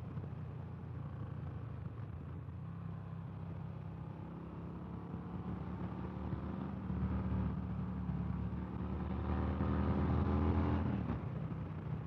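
Harley-Davidson Fat Bob's Milwaukee-Eight V-twin running on the road with wind noise over the microphone. The engine pulls under throttle, rising steadily in pitch and loudness for several seconds, then drops off sharply near the end as the throttle closes.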